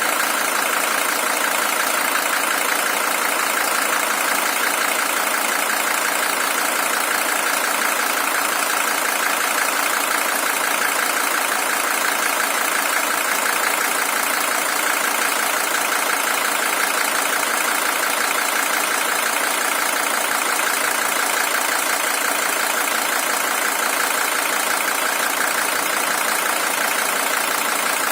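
Mercedes-Benz OM617 five-cylinder diesel engine of a W123 300TD idling steadily. The engine is high-mileage, with 620,000 km on the original engine.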